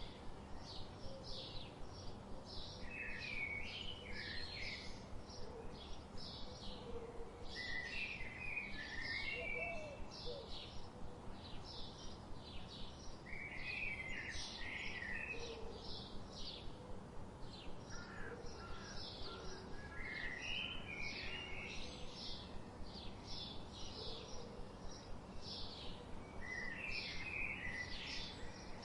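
Songbirds singing: a fast run of short, high chirps repeated two or three times a second, with a lower warbling phrase breaking in every five or six seconds, over a steady background hiss.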